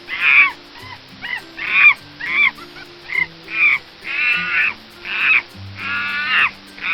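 An animal calling over and over, about twelve short harsh calls at roughly two a second, with faint background music underneath.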